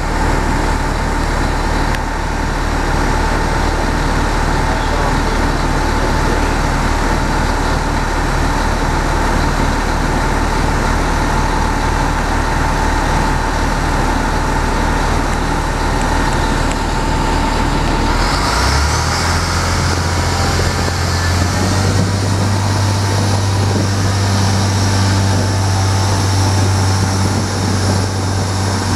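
A train's engine running steadily, heard from inside the carriage while it stands at the platform. About two-thirds of the way through, the engine note steps up to a higher hum with a rising whine as the train pulls away and gathers speed.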